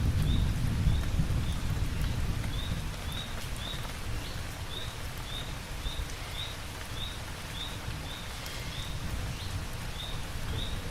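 Steady rain falling, with the low rumble of thunder dying away over the first few seconds. A short, high chirp repeats about twice a second over the rain.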